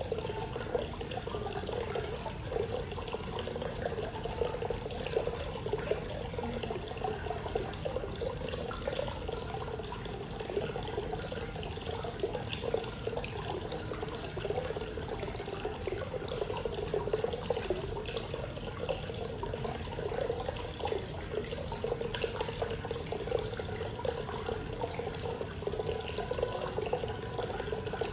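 Hot spring water pouring steadily into a bath, a continuous splashing and gurgling flow.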